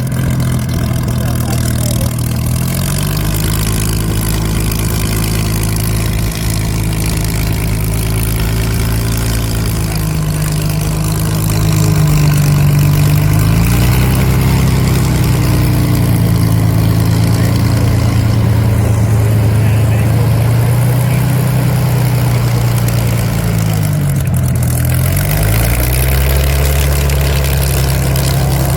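A Spitfire's piston engine running at low power as it taxis in, a steady deep note that steps up in pitch and loudness about twelve seconds in and dips and recovers a couple of times.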